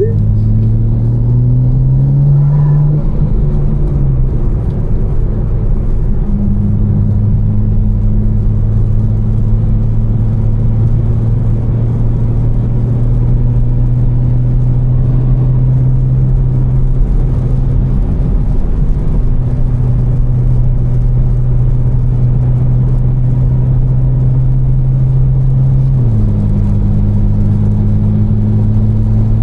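Tuned BMW M4's twin-turbocharged inline-six on catless downpipes and a Fi exhaust, cruising with a steady low drone. It rises in revs over the first few seconds, then holds steady, and the revs drop near the end.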